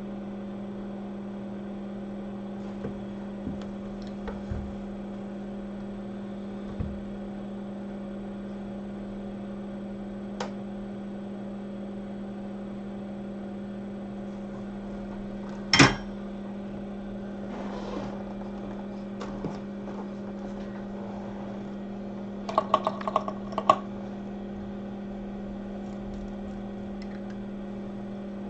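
Steady electrical hum from a repair bench, with scattered light clicks and taps. There is a sharper tap about sixteen seconds in and a quick run of clicks near the end.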